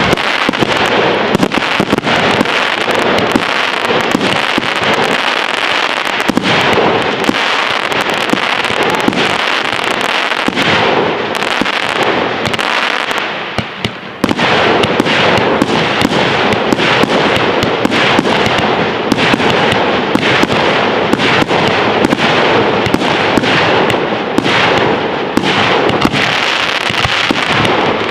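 Fireworks display going off in a dense, continuous barrage of bangs and crackling. It eases off briefly about halfway through, then comes back in full all at once.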